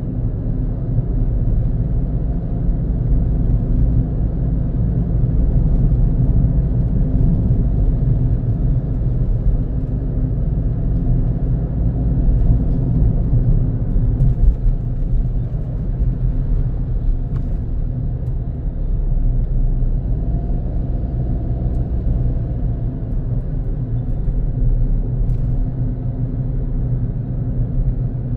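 Car driving steadily on a road: a continuous low rumble of engine and tyre noise.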